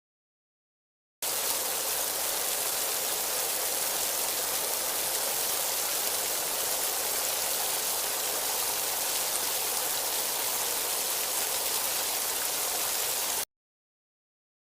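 Running water: a steady, even rush that starts abruptly about a second in and cuts off abruptly near the end.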